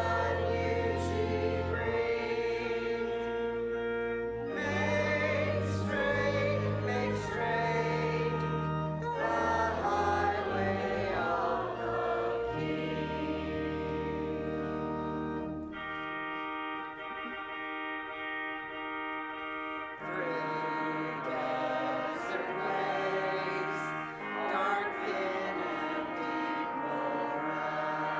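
Church congregation singing a hymn with organ accompaniment, held chords under wavering voices; for a few seconds past the middle the low notes drop out.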